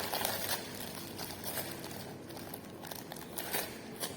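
Close-up eating and food-handling noises: crinkling with soft clicks and rustles as soup and food are handled and eaten.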